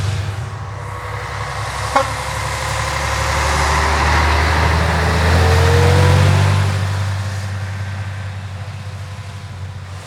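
Heavy truck's diesel engine running as it drives past, growing louder to its loudest about six seconds in and then fading away. There is a sharp click about two seconds in.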